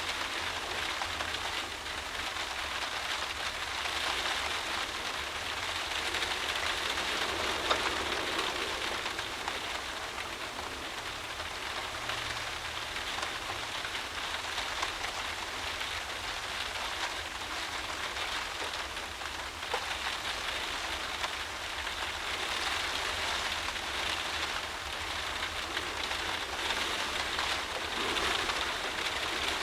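Heavy driving rain beating against a windowpane, heard from inside the room: a dense, steady patter that swells and eases in slow gusts.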